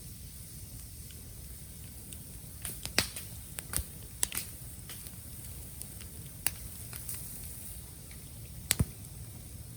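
Bamboo bonfire burning, with a low steady rumble and scattered sharp crackles and pops, the loudest a close double pop near the end.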